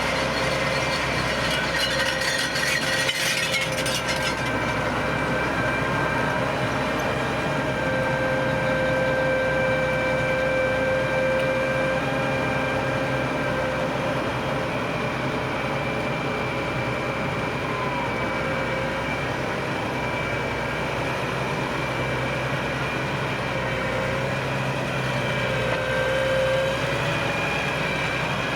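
Tractor engine and a Standen T3 three-row trailed potato harvester running steadily while lifting potatoes, with a constant machine whine under the engine. A rattling clatter sounds for the first few seconds.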